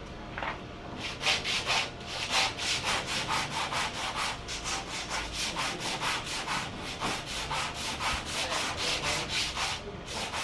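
Hand sanding of wood: sandpaper rubbed back and forth in quick, even strokes, about three a second, starting about a second in and pausing briefly near the end.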